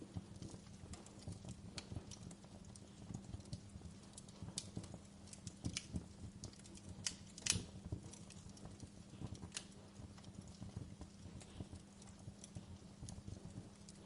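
Wood fire crackling in a fireplace: irregular small pops and snaps over a low steady rumble, with one louder crack about halfway through.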